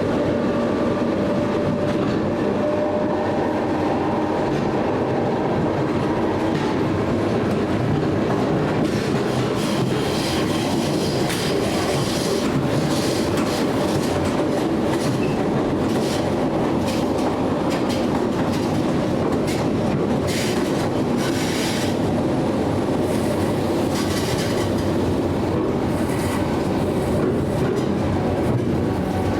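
Train running on rails: a steady rumble of wheels with clicks from the rail joints, which become more frequent after the first third.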